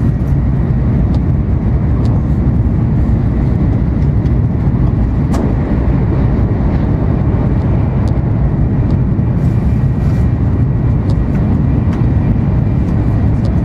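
Steady low rumble of an N700 series Shinkansen running at speed, heard from inside the passenger cabin. A short sharp thud comes about five seconds in as another Shinkansen passes on the next track.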